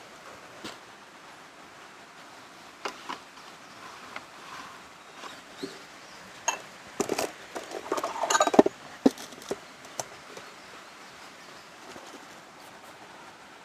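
Steady rain hiss with a scattered run of small clinks and knocks as hard objects are handled, densest and loudest about seven to nine seconds in.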